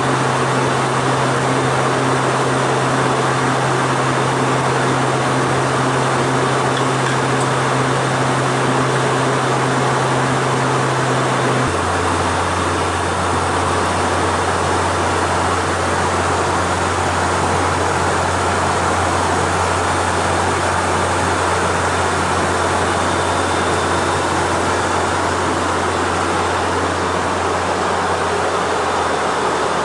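Cabin noise of a Hawker 800 business jet in flight: a loud, steady rush of airflow and its twin TFE731 turbofans. Under it runs a low hum that steps down abruptly to a lower pitch about twelve seconds in.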